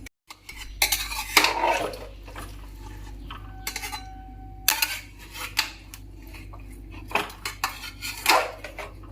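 Spatula stirring and scraping in a cooking pot, knocking against its sides, as raw chicken, vegetables and spice paste are mixed together. The strokes come irregularly, with a short ringing note from the pot a little before the middle.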